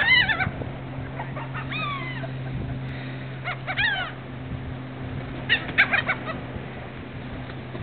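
Birds calling: short, harsh calls that arch up and down in pitch, coming in clusters about every two seconds, over a steady low hum.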